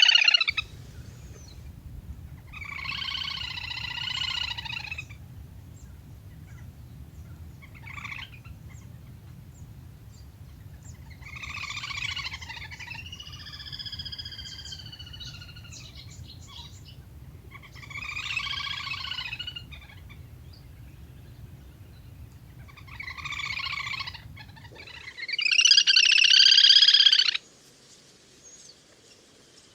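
Lesser whistling duck ('le le hôi') calls, about six short rounds of one to two seconds each, the loudest near the end, over a low steady hum.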